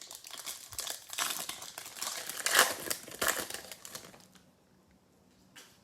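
Plastic wrapper of a trading-card pack crinkling as it is torn open and handled, for about four seconds. A short crinkle follows near the end.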